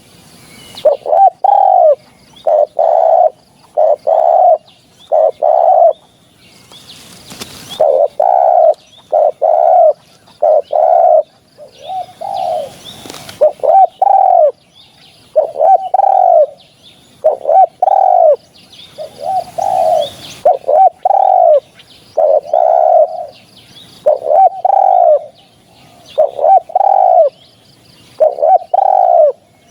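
Spotted dove cooing over and over in short phrases of low coos, a new phrase every second or two. A few stretches of hissing noise come and go under the calls.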